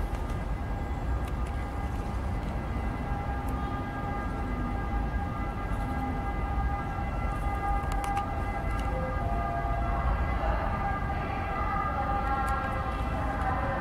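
Freight train of covered wagons rolling slowly, with a low rumble under several steady high-pitched metal squeals from the wheels. More squealing joins in from about ten seconds in.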